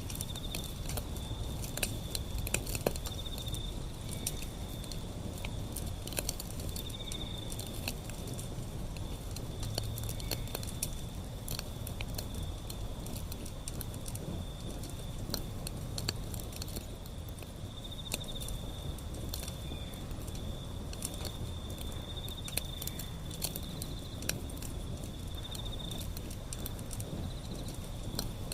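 Wood fire burning, with frequent irregular crackles and pops over a low steady rumble. A high insect trill, like crickets, runs steadily behind it.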